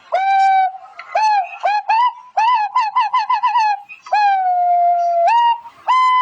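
Animal whining calls: a string of pitched, whistle-like notes, each hooking upward at the end. There are two long held notes, and a quick run of short notes in the middle.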